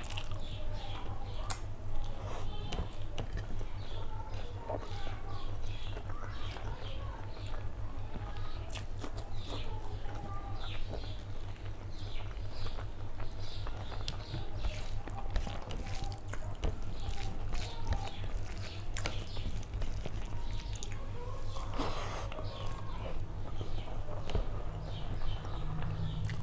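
Close-up chewing and lip smacking of a person eating curry and rice by hand, with many short wet clicks and smacks, over a steady low hum.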